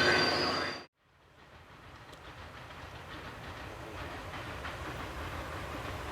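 Loud train noise with a sounding horn, cut off abruptly just under a second in. Then the steady rumble of a sleeper train running on the line fades up, with faint clicks from the rails.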